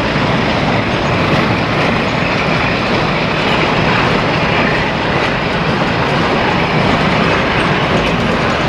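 A train moving along the track close by, with a steady, loud noise of wheels running on the rails that holds without a break.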